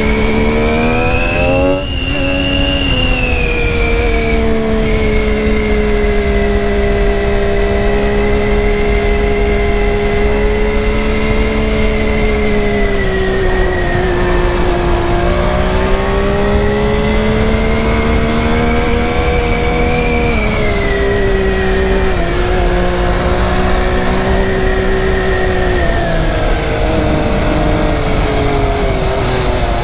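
2020 MV Agusta F3's inline-three engine running under way. Its pitch rises over the first few seconds, then holds fairly steady with slow rises and dips as the throttle is opened and eased.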